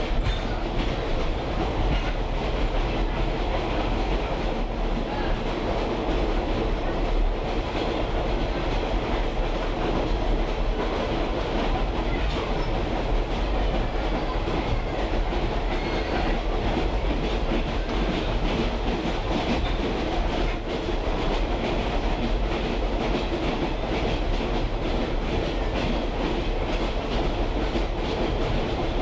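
Caboose rolling on a moving train, with a continuous, even rumble of steel wheels on the track.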